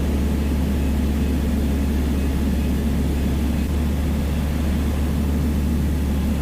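Piper Dakota's six-cylinder Lycoming engine and propeller droning steadily in cruise flight, heard from inside the cabin.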